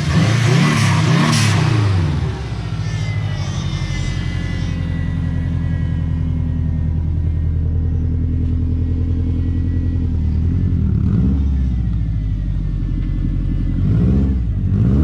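Subaru WRX's turbocharged flat-four engine accelerating through the gears on a freshly replaced clutch. The revs swing up and down in the first couple of seconds, hold a steady pull through the middle, and rise and fall again about eleven seconds in and near the end.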